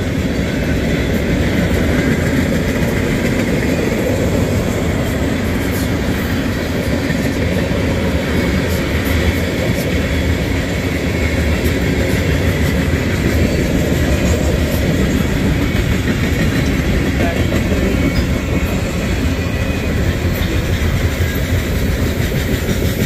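Manifest freight train's tank cars and boxcars rolling past at a crossing, with a steady, loud rumble of steel wheels on the rails.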